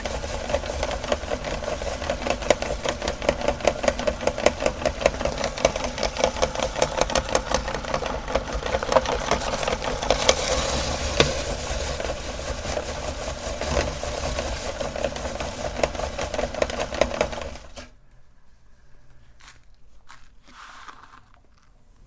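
Electric meat grinder running, its motor humming while the auger crunches through cookies with a dense rapid clicking. It stops suddenly near the end, leaving a few faint knocks.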